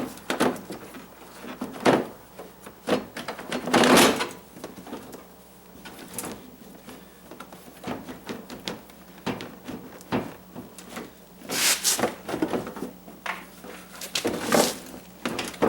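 Headlight retaining clips and the headlight housing being pulled up and worked loose by hand: a scattered series of plastic clicks, knocks and rattles, the loudest about two and four seconds in, around twelve seconds and near the end.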